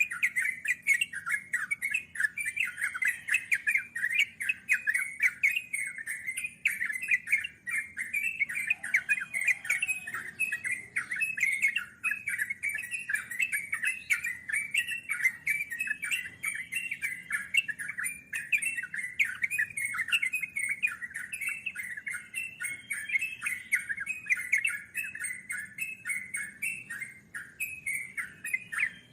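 Yellow-vented bulbul singing a long, unbroken run of rapid bubbly chattering notes, the continuous 'ngeropel' song, with faint fine high ticking above it.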